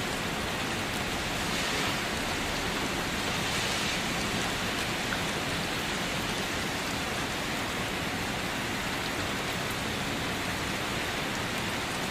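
Steady rain falling, an even hiss of drops on a surface, swelling slightly a couple of seconds in.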